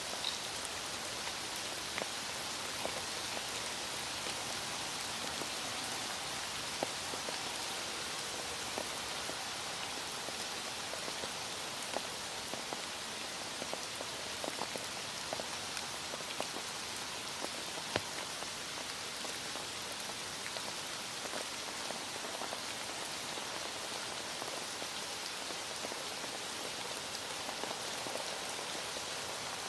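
Heavy rain falling steadily, with scattered sharper drop taps.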